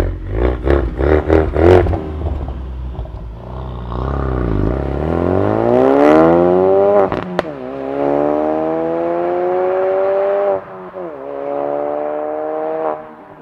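Ford Focus RS MK3's turbocharged 2.3-litre four-cylinder engine and exhaust: a quick run of short revs at first, then the car accelerating through the gears, the engine note climbing and dropping abruptly at each upshift, about seven and ten and a half seconds in.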